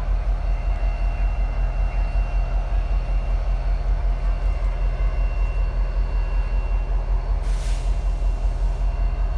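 Diesel-electric locomotive idling, a steady low throb that pulses rhythmically, with a brief hiss of air about three quarters of the way through.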